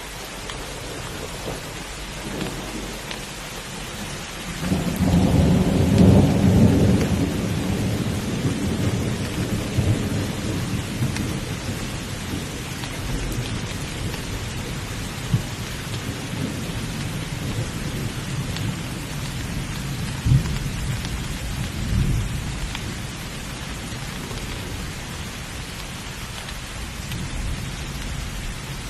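Heavy rain falling steadily, with a loud roll of thunder that swells about five seconds in and rumbles away over several seconds, and two shorter low thunder cracks later on.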